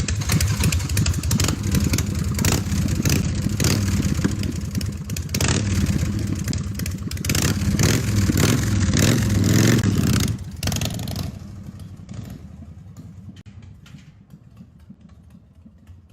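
Motorcycle engine revving and accelerating, its pitch rising and falling through the gears, loud for about ten seconds and then fading away as the bike moves off.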